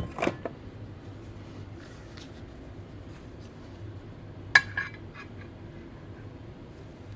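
Metal parts clinking as they are handled during hand assembly: a few light clicks at the start, then a sharp ringing clink about four and a half seconds in, followed by a smaller one.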